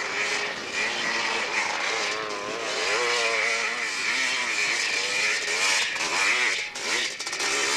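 Dirt bike engine revving hard under load on a steep hillclimb, its pitch rising and falling unevenly, with a dip near the end.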